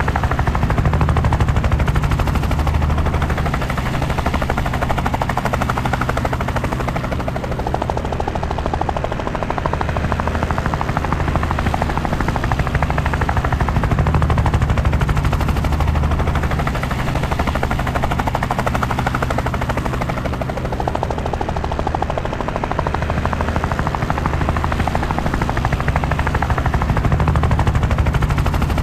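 Helicopter in flight: steady, rapid rotor chop over engine noise, slowly swelling and easing every few seconds.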